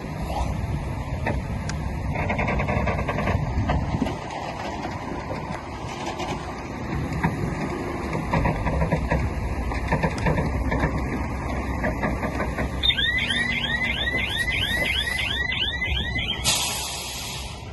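Heavy diesel earthmoving machinery (bulldozer and dump trucks) running with a continuous engine rumble and clatter. About two-thirds of the way through, a reversing alarm chirps rapidly, about three rising chirps a second, for roughly three seconds, followed by a short hiss.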